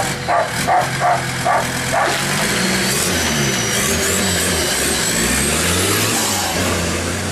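A dog barks rapidly, about three barks a second, through the first two seconds. Then the turbocharged 3-litre engine of a GAZ-69 off-roader revs up and down, with a high whine rising over it in the middle.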